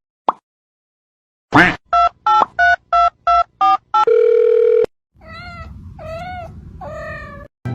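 Telephone keypad tones: seven quick two-tone beeps in a row, then a longer steady tone. After that a cat meows three times.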